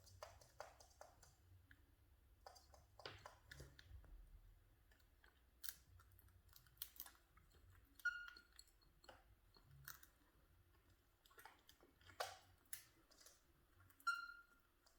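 Cockatiels cracking and crunching grains with their beaks: quiet, irregular small clicks and cracks, with two short soft chirps.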